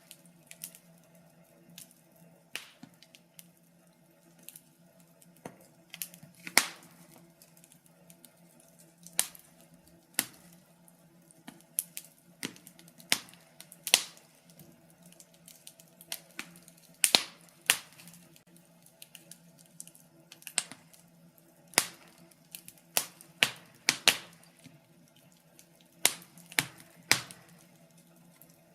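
Wood fire burning in a fireplace, crackling with irregular sharp pops and snaps, roughly one or two a second, over a faint steady low hum.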